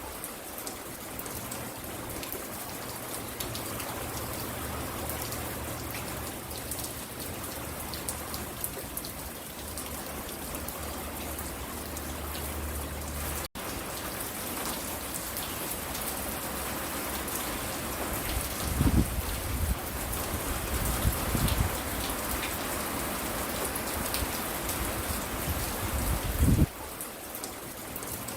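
Steady rain falling around a front porch. It cuts out for an instant about halfway, and a few low rumbles come through in the second half, the strongest near the end.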